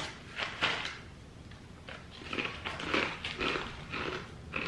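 Crunching and chewing of thin, crisp toasted-corn crackers: two sharp bites in the first second, then a run of short crunchy chews from about two seconds in.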